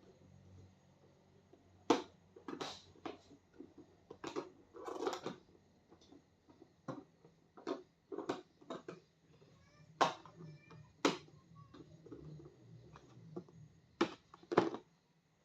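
Irregular handling noises: a string of sharp clicks, knocks and short rustles as vegetables and their packing are handled and put away for storage.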